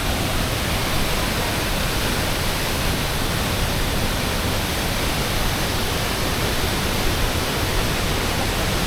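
Rio Celeste waterfall: falling water rushing as a loud, steady, unbroken noise.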